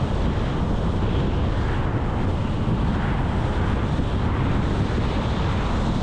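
Steady road noise of a car being driven: a low, even rumble of tyres and engine with wind noise over it.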